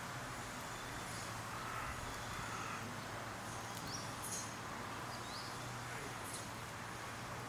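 Steady outdoor background noise with a low hum, a few faint thin clicks, and two faint short rising chirps, like a small bird, about four and five seconds in.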